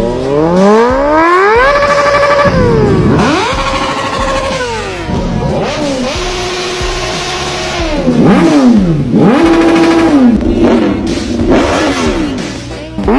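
Motorcycle engines revving repeatedly, the pitch sweeping up, holding briefly and dropping again several times over.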